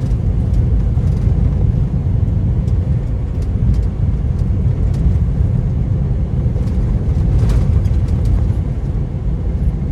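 Steady low rumble of a semi-truck driving on the highway, heard from inside the cab.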